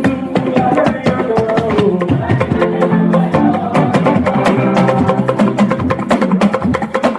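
Church choir anthem: sung voices and instruments over a fast, steady percussion beat of sharp clicks.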